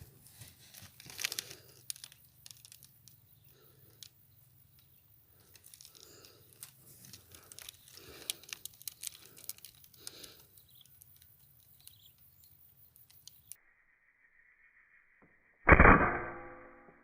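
Low rustling and handling noise, then one sharp, loud PCP air-rifle shot near the end that rings out and fades over about a second.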